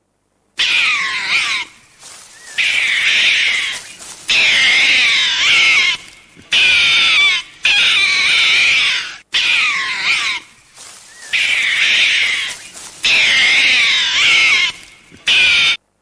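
An animal calling loudly in a string of about nine high-pitched, wavering calls, each about a second long, with short breaks between them; the calls start about half a second in and cut off abruptly just before the end.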